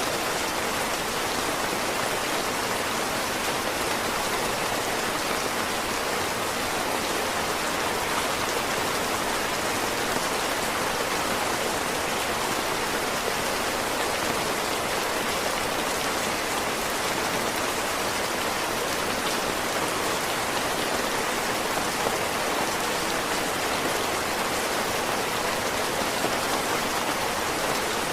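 Heavy rain falling steadily, a dense even hiss of drops with no breaks or distinct events.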